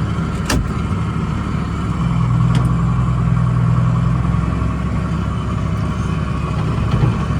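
A 1977 John Deere tractor's engine running steadily while it pushes snow, its low note louder for a couple of seconds in the middle. Two sharp clicks are heard early on.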